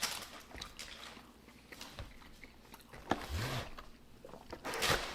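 A person chewing food with wet mouth clicks and smacks close to the microphone. A short hummed "mm" comes about three seconds in.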